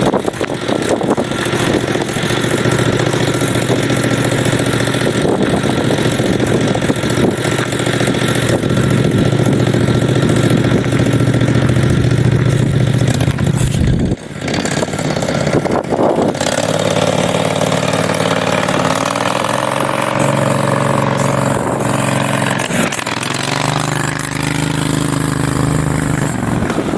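Large homemade mini bike's V-twin engine running hard while riding, with a brief break about halfway through. After the break the engine revs up and its pitch climbs as the bike accelerates, eases off, then climbs again near the end.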